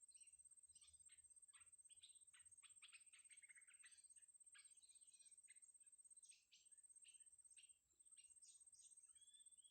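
Faint, rapid, high-pitched chirps from a serindit (blue-crowned hanging parrot): short sharp notes in irregular clusters, with a quick run of them about three seconds in. A thin, steady high whine runs underneath.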